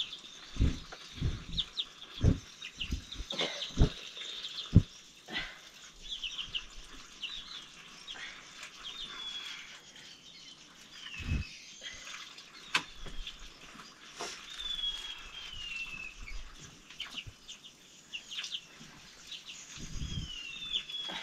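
Birds chirping: many short high chirps and descending calls throughout, with dull low thumps in the first few seconds.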